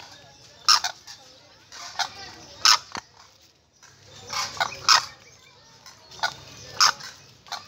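Captive birds calling: a series of short, loud calls, about eight of them, each a second or so apart.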